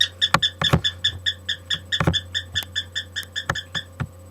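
Pet bird singing a fast, even run of short repeated chirps, about six a second, that stops near the end, with a few sharp clicks among them.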